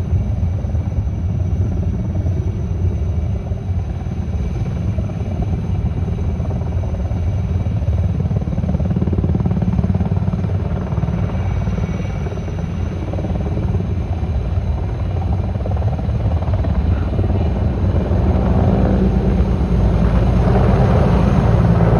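Firefighting helicopter running, with a steady rotor beat over a low engine rumble that grows louder over the last several seconds as it comes closer.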